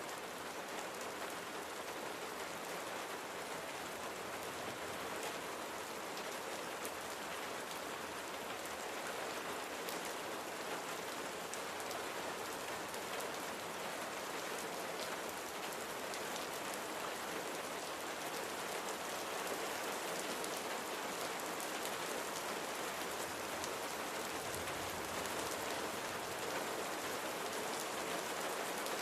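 Steady rain falling on a surface, a dense even patter with individual drop ticks, growing slightly louder in the second half.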